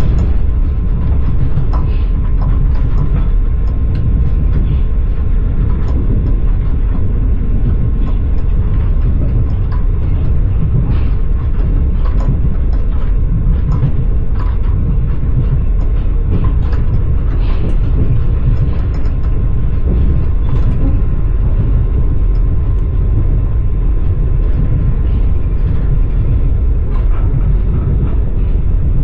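Train carriage heard from inside as it runs along the track: a steady low rumble from the wheels and running gear, with scattered clicks and knocks of the wheels on the rails.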